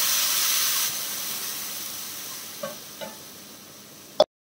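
Tomato purée hitting hot oil and cumin in a kadhai, sizzling loudly, the sizzle dying away over the next few seconds. Two light clicks near the end, then a sharp click just before the sound cuts off.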